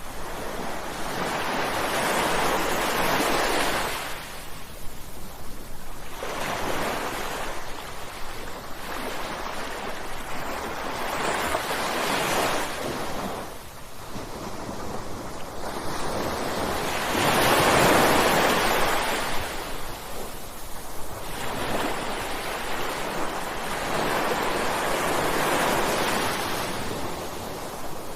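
Ocean waves breaking and washing up the shore, swelling and fading in a slow rhythm, one surge every few seconds, with one louder wave about two-thirds of the way in.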